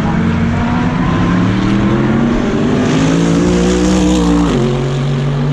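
GT3 race car engine heard onboard, accelerating hard with its pitch climbing steadily. About four and a half seconds in it makes a quick upshift: the revs drop sharply, then start rising again.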